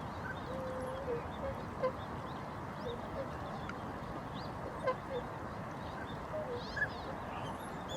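A flock of waterfowl calling: many short, overlapping honking calls over a steady background hiss.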